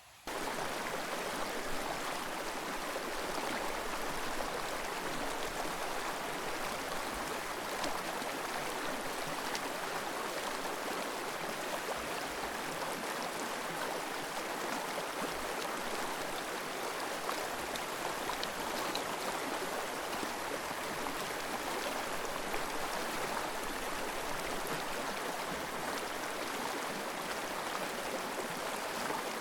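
Forest river flowing, a steady rush of water over stones that cuts in abruptly just after the start.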